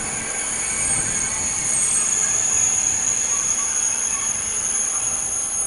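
Double-deck TGV high-speed train running past on the tracks, its rolling noise swelling to a peak midway and then easing, with steady high-pitched squealing tones over the rumble.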